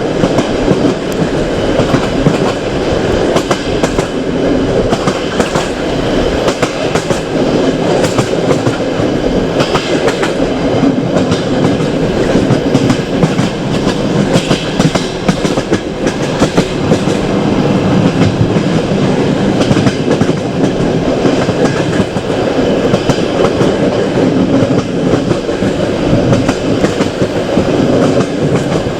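Passenger train carriage running on the rails: a steady rumble with the constant clatter of wheels on track.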